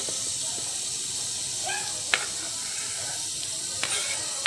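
Diced pork lung and heart sizzling in oil in an aluminium pot with onion and garlic, a steady hiss. A metal spoon knocks sharply against the pot about halfway through and again near the end.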